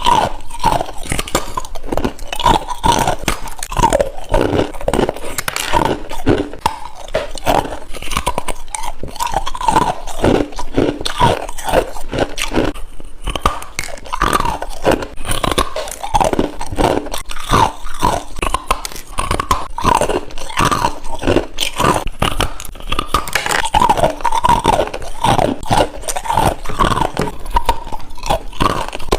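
A person biting and chewing ice, a continuous run of irregular crunches packed closely together.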